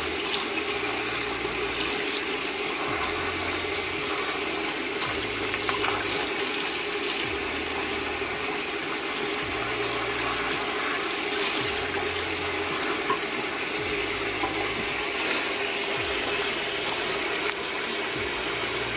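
Water pouring steadily as a potted plant is soaked through with water.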